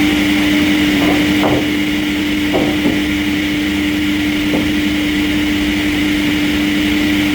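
Sawmill machinery running with a steady hum, with a few faint short knocks over it.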